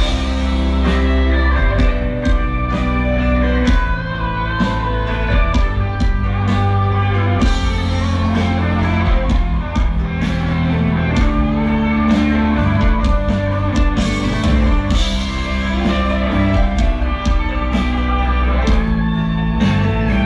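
Live rock band playing an instrumental passage: guitar leading over steady bass and drums, with no singing.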